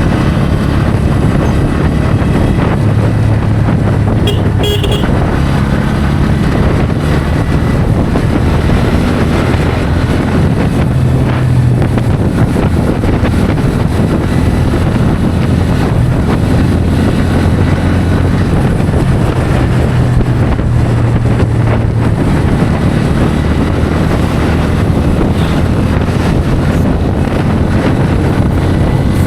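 Bajaj Pulsar N160's single-cylinder engine running steadily at highway speed, its pitch shifting slightly with the throttle, under constant wind rushing over the microphone. A vehicle horn toots briefly about five seconds in.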